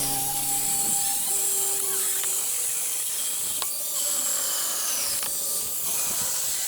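Angle grinder fitted with a chainsaw attachment cutting through firewood logs, a steady, mostly high-pitched rasp of the chain in the wood. Background music fades out about a second in.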